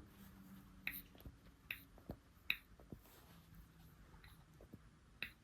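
Light, sharp clicks and taps a second or so apart, of small parts and tools being handled.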